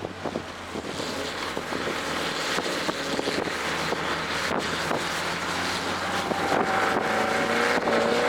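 Toyota GR Corolla's turbocharged 1.6-litre three-cylinder, fitted with an aftermarket intake, running hard on a race track with wind and road noise. The engine note climbs and gets louder in the last couple of seconds.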